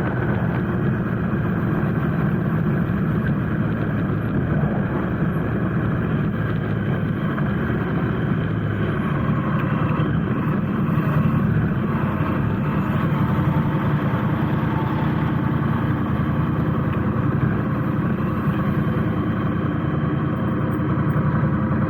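Motorcycle engine running steadily at low revs, idling or creeping through slow traffic.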